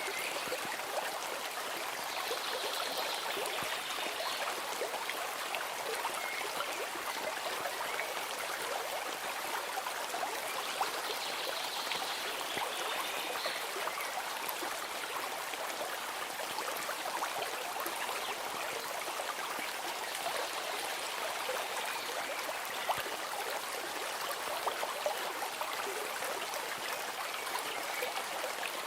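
Steady rush and trickle of a running stream, even and unbroken throughout.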